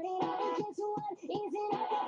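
A song played back sped up, its vocals raised to a high, chipmunk-like pitch over the backing music.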